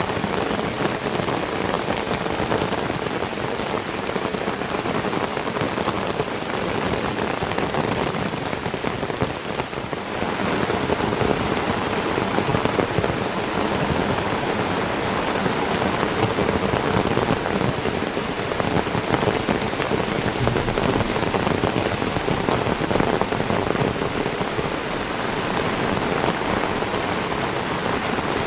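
Heavy tropical rain falling steadily on trees and foliage, a dense even hiss that eases slightly for a moment about ten seconds in.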